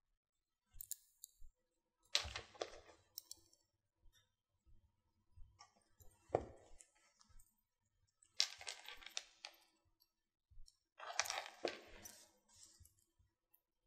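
Faint clicking and light clinking of jewelry pliers and small metal jump rings and chain being handled as jump rings are opened and closed. It comes in about four short bursts with near quiet between them.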